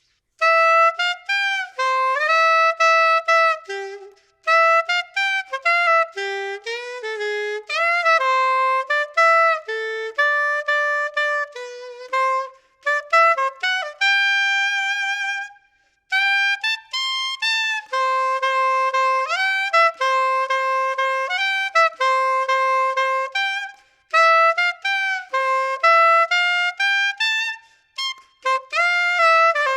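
Yamaha YSS-62 soprano saxophone, freshly overhauled, played solo on a Riffault mouthpiece with a Rigotti Gold 3 medium reed: a single melodic line of quick notes in phrases, with a few short breaks between them.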